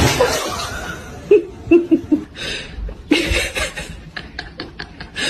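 People laughing in short bursts, with a quick run of ha-ha-ha laughter about four seconds in.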